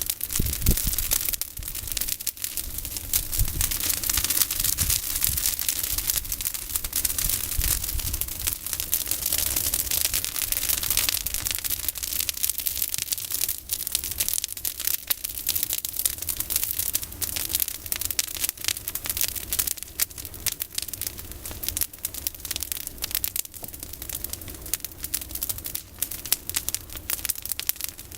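Campfire of pruned olive branches burning, with dense continuous crackling and popping.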